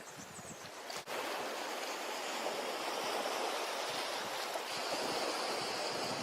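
Ocean surf washing on a tropical beach, a steady rushing wash of waves. It drops out sharply for an instant about a second in, then comes back louder.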